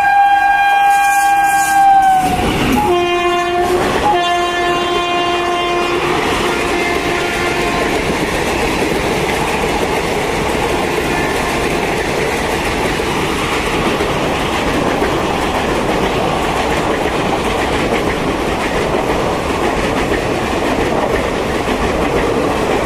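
A WAP-4 electric locomotive sounds its horn in two long blasts. The second blast is lower in pitch as the locomotive goes by. Then the express's coaches run past at speed with a steady rumble and the clickety-clack of wheels over rail joints.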